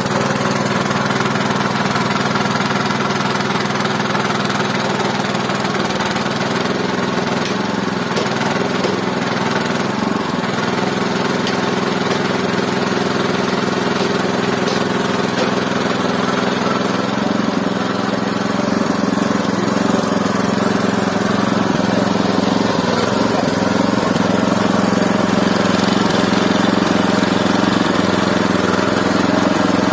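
Mobile band sawmill running steadily, its engine a constant drone that shifts slightly partway through and gets a little louder near the end.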